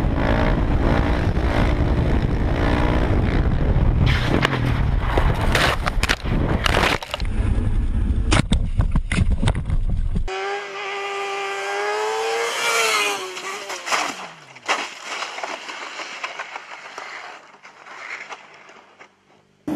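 Motorcycle engines running and revving over heavy wind and road noise, with several sharp knocks; about ten seconds in the sound cuts abruptly to a single engine note that rises and then falls away, fading out near the end.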